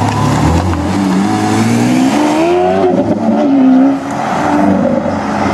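A supercar engine revving hard as the car accelerates. The engine note climbs, dips briefly near three seconds in, and climbs again to its loudest just before four seconds, then falls away.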